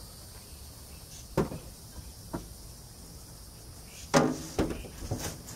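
A few sharp knocks and clunks from airboat propeller blades and hub parts being handled and set down. The loudest comes about four seconds in, with a short ringing tail, followed quickly by two more. A steady chirring of insects runs underneath.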